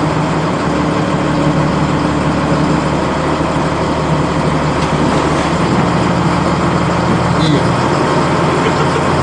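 Boat engine running steadily under way, heard on board, with a steady rush of noise over it.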